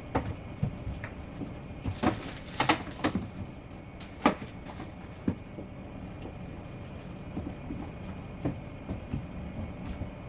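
Food containers and jars being handled and set down while a refrigerator is cleared out: scattered knocks and clatters, a quick cluster about two seconds in and a sharp knock about four seconds in, then a few softer ones.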